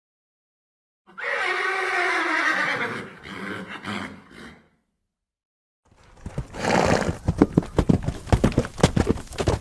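A horse neighs once, about a second in: a loud whinny that drops slightly in pitch and fades out. After a short silence, rapid hoofbeats start about six seconds in, several beats a second.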